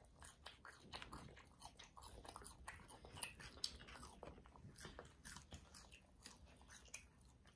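Faint chewing and crunching of fast-food fries and chicken bites, with many small irregular clicks.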